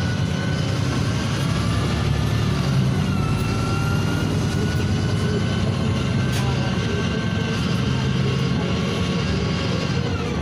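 NefAZ 5299 city bus under way, heard from inside the cabin: its Cummins ISBe diesel runs steadily under a thin whine that slides down in pitch a few seconds in and rises again near the end as the bus slows and speeds up.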